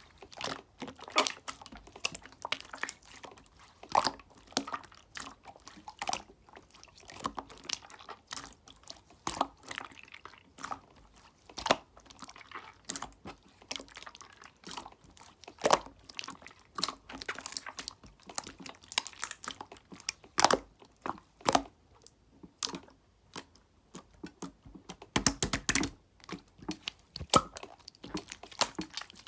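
Clear slime being worked by hand, squeezed and pressed, giving a steady run of irregular sharp clicks and pops, with a busier, louder flurry near the end.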